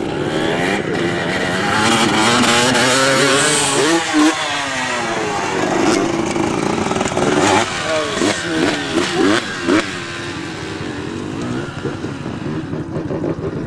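Dirt bike engine revving hard, its pitch climbing and dropping again and again, with several sharp throttle peaks in the middle, then easing to a lower, steadier run near the end.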